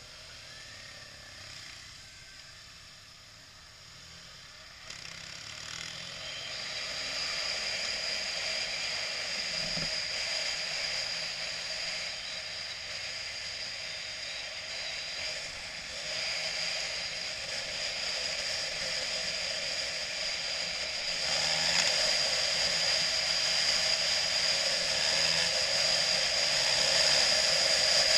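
A BMW motorcycle being ridden, its engine and rushing road and wind noise steady. The noise grows louder about five seconds in and again about twenty-one seconds in.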